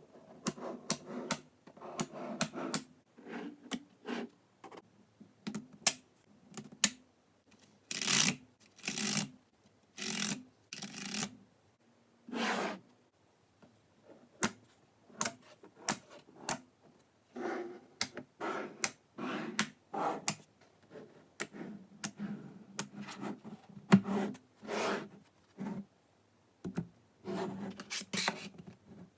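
Small neodymium magnetic balls clicking and snapping together as they are handled and set into place, in irregular sharp clicks with short rattling rubs between them.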